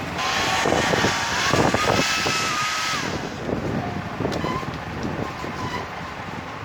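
Repaired hair dryer running under test: fan noise with a motor whine that rises slightly in pitch, then drops to a quieter running sound about three seconds in.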